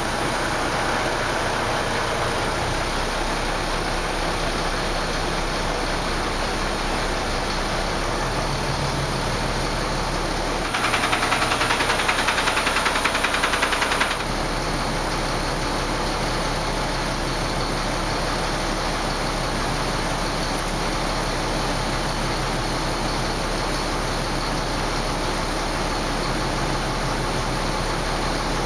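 Renault Premium truck's diesel engine idling steadily, with a louder, rougher stretch of about three seconds a little before the middle.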